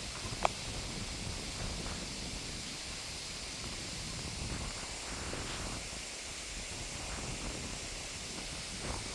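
Steady outdoor wind noise with rustling, and one brief sharp click about half a second in.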